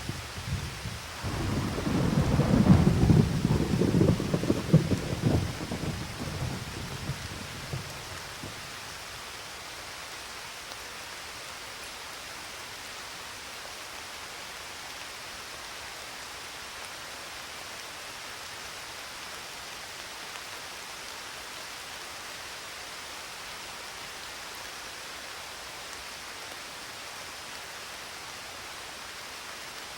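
Steady rain with a rolling thunderclap that starts about a second in, rumbles loudest over the next few seconds and fades out by about eight seconds, leaving only the even hiss of rain.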